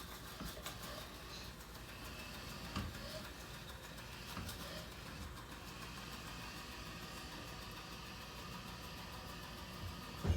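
Robot vacuum running: a steady motor and brush hum, with a few light knocks as it moves about.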